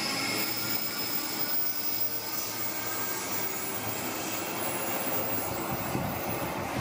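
Queensland Rail electric suburban trains running: a steady rumble and hiss of a train moving off the platform while another approaches on the curve, with a faint high motor whine in the first couple of seconds.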